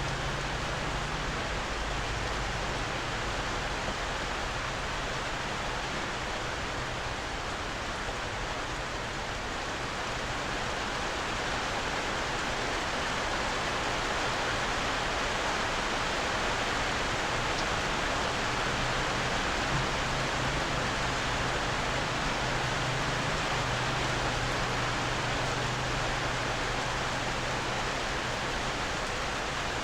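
Heavy rain falling steadily on a bamboo roof, an even hiss without a break. A faint low hum comes and goes underneath.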